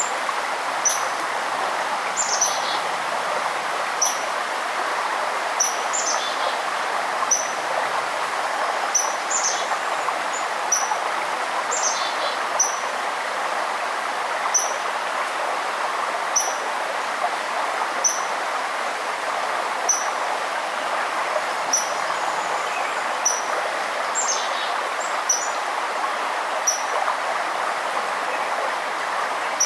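Steady rush of running river water, with a songbird repeating a short high chirp every second or two and giving a few quick downward-sweeping calls.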